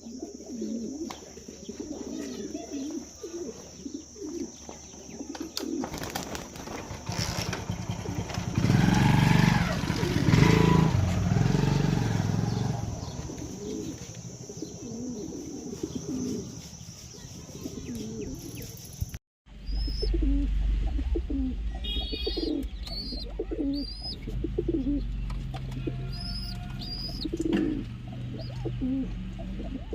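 Domestic pigeons cooing over and over, with a steady high whine under the first part. After a brief break, small birds chirp among the coos.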